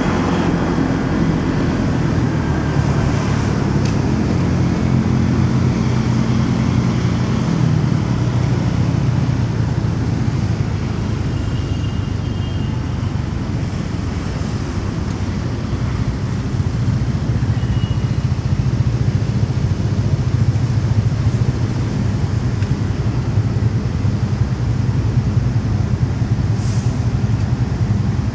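Motorcycle engine running under a ride through city traffic, with wind and road noise. The engine note drops about eight seconds in and stays lower for the rest.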